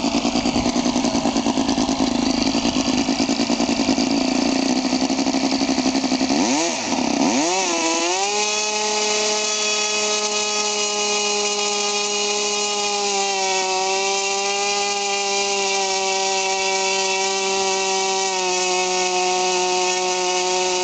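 O.S. Wankel rotary model-aircraft glow engine, running on 15% nitro fuel and turning a 10x6 propeller during break-in. It runs rough at a lower speed, dips briefly about six seconds in, then revs up sharply and holds a steady high-pitched whine.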